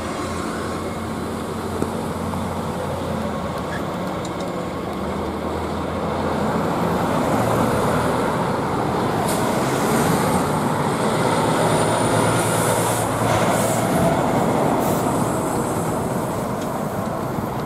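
Rear distributed-power GE diesel locomotive of a freight train running as it comes around a curve toward the listener, its engine drone growing louder about six seconds in. A thin high squeal from the wheels on the curve is heard for a few seconds midway, along with a few clicks, and a semi truck passes near the end.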